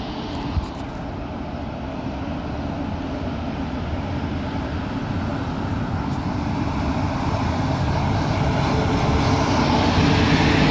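Red DB electric locomotive hauling double-deck regional coaches approaching along the platform track. The rumble of its motors and wheels grows steadily louder until it passes close by near the end. A single short knock comes about half a second in.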